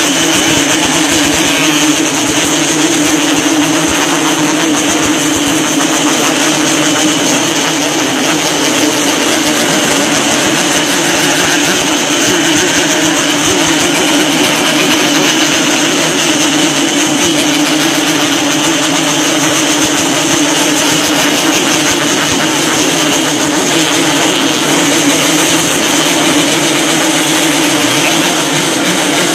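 Many Yamaha RX-King two-stroke motorcycle engines revving together, making a loud, steady, unbroken din in which no single bike stands out.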